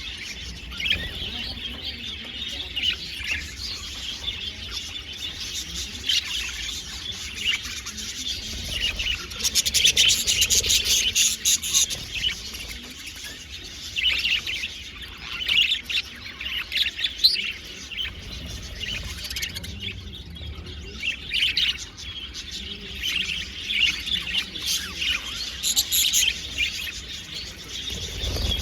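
A flock of budgerigars chattering and warbling, many short chirps overlapping, with a louder burst of chatter about ten seconds in.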